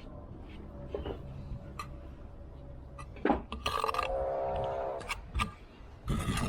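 Scattered sharp clinks and taps of bricklaying work, a steel trowel knocking on bricks and mortar. A louder pitched sound runs for about a second and a half about three and a half seconds in.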